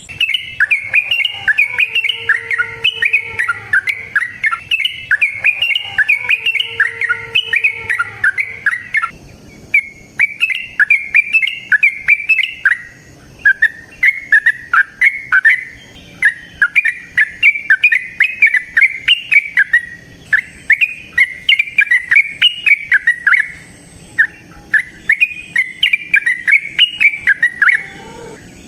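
Yellow-vented bulbul (trucukan) singing a long, rapid run of chirping, warbling notes, broken by a few brief pauses.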